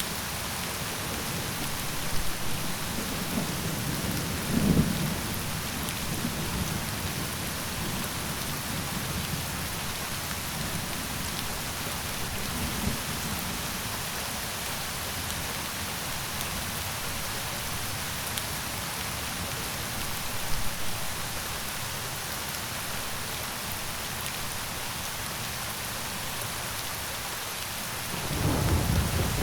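Steady rain falling, with low rolls of thunder rumbling a few seconds in and again near the end.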